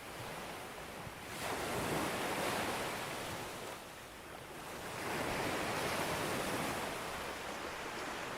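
Ocean waves breaking on a beach: a steady surf wash with two waves surging in, one about a second in and another about halfway through, each swell lasting a few seconds before easing off.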